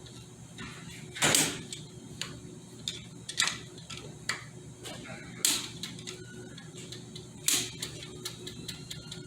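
Hand tools knocking and clicking against metal parts of a Ford AOD automatic transmission during disassembly: a sharp knock about every two seconds, four of them, with lighter clicks in between.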